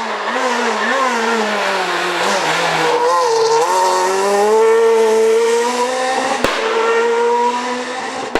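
Renault Clio R3 rally car's engine at high revs under hard driving: the pitch wavers, drops about two to three seconds in, then climbs again and holds high. A single sharp crack about six seconds in.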